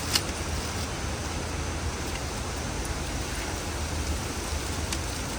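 Steady hiss over a low rumble, with a sharp click just after the start and a fainter click near the end.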